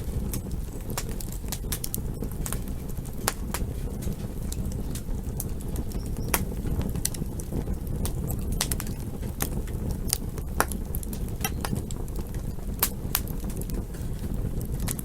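Campfire crackling: irregular sharp pops and snaps, several a second at times, over a steady low rumble.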